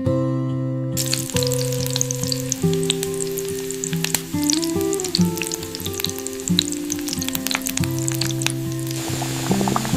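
Food sizzling and crackling in a hot frying pan, starting suddenly about a second in, over soft guitar music.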